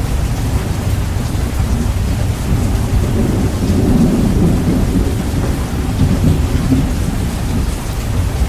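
Heavily bass-boosted recording of steady rain with thunder rumbling, swelling louder about four seconds in.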